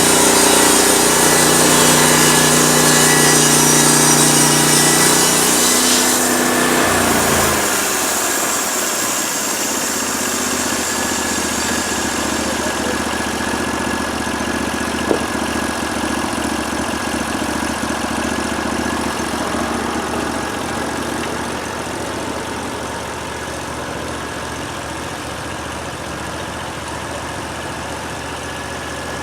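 Portable band sawmill's gasoline engine running fast, with the band blade cutting wood. About seven seconds in it is throttled down and settles to a steady idle.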